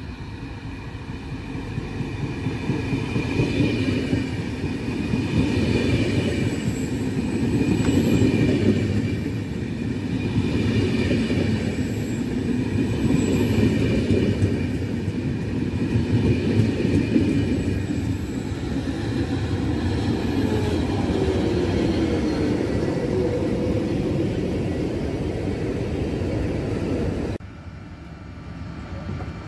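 Italian regional passenger train hauled by an FS E464 electric locomotive passing through a station, a steady rumble of wheels on rail with a high ringing note, swelling and fading every couple of seconds as the cars go by. It cuts off abruptly near the end to a quieter rail rumble.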